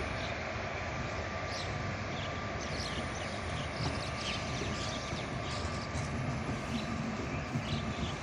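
Passenger train coaches rolling past on the track: a steady rumble of wheels on rails, with many short, high squeaks or chirps scattered throughout.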